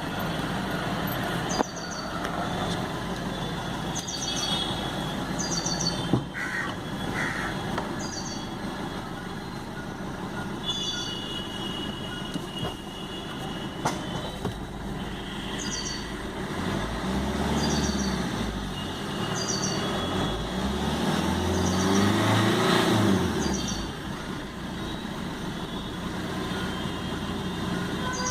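Maruti Suzuki Vitara Brezza ZDi's 1.3-litre four-cylinder diesel engine running at idle, revved twice about two-thirds of the way through, the pitch rising and falling each time.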